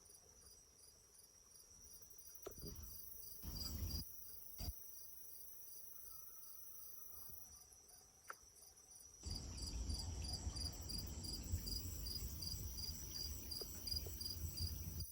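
Crickets chirping steadily, about three pulses a second over a continuous high trill. About nine seconds in a low rumbling noise joins, with a few faint clicks before it.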